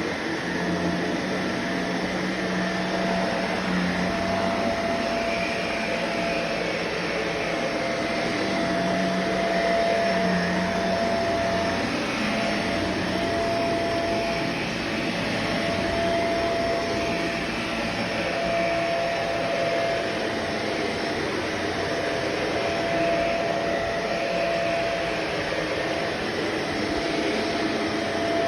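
Vacuum cleaner running steadily on the floor: a constant motor whine over airflow noise, swelling and easing gently every few seconds.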